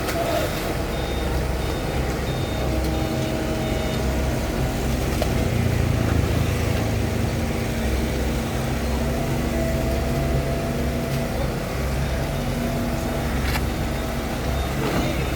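Excavator's diesel engine running steadily under load. A high-pitched beeping alarm sounds about twice a second during the first few seconds, then stops.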